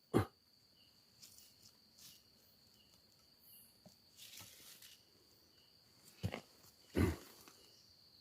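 Quiet night ambience with a steady high insect drone, broken by a few short rustling knocks: one just after the start and two around six to seven seconds in.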